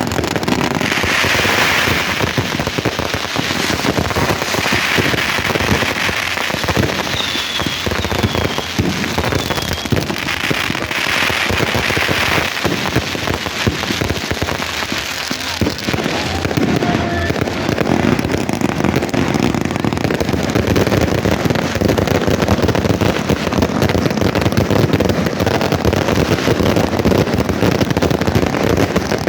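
Fireworks and firecrackers going off: a dense, continuous crackling of many small bangs and pops, with a few short whistles in the first third.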